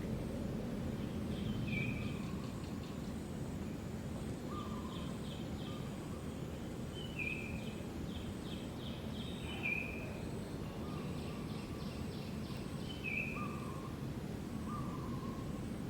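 Outdoor ambience: a steady low background rumble with small birds calling. Short chirps and quick trills repeat every few seconds.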